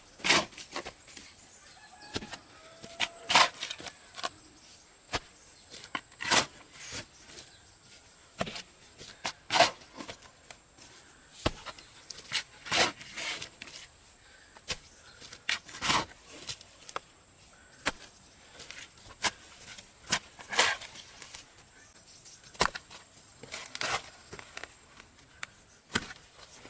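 Sharp knocks, the loudest coming about every three seconds, with lighter taps between them, like repeated strikes of a tool.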